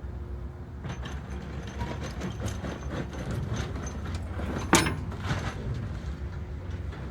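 A low, steady engine rumble with a run of knocks and clatter over it, and one sharp bang about two-thirds of the way through.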